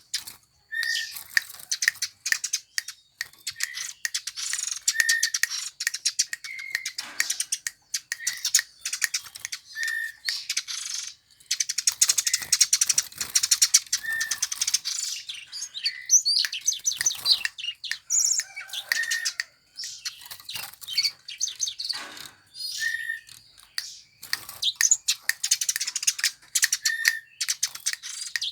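Eurasian tree sparrow chirping rapidly and almost without pause, high twittering notes with a short lower chirp repeating about once a second.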